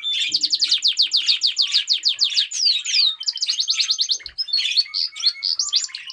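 Canary singing in rapid trills, each a quick run of the same falling high note repeated about ten times a second, switching to a new trill about three seconds in, with other cage birds chirping alongside.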